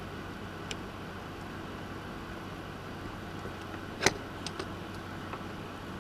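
Small clicks and taps from hand soldering on a circuit board, the sharpest about four seconds in, with a few lighter ones after it, over a steady hiss and low hum.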